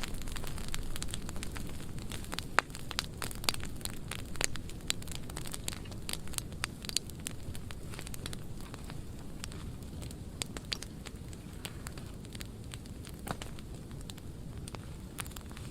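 Burn pile of dry pruning wood burning, with steady crackling and many sharp pops over a low rumble; the loudest pop comes about two and a half seconds in.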